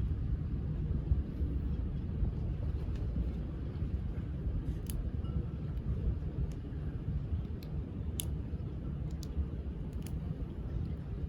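Steady low rumble of a boat's engine, with a few faint clicks scattered through it.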